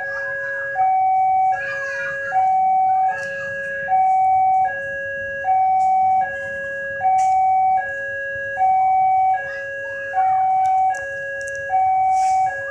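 Railway level-crossing warning alarm sounding: an electronic two-tone signal alternating between a higher and a lower note, each held just under a second, in an even repeating cycle. It signals that a train is approaching the crossing.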